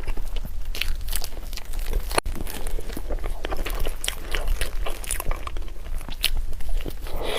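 Close-miked chewing and biting of food: irregular, crunchy mouth clicks and smacks, over a steady low hum.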